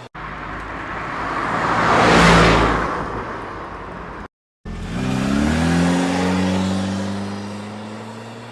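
Car engine sounds in two cut-together pieces: a car passing by, loudest a little over two seconds in, then, after a brief cut to silence, an engine revving up with its pitch climbing and then slowly fading.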